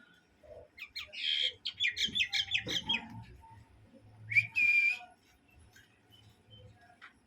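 Common myna calling: a fast run of short chattering notes, then about four seconds in a brief, louder whistled note.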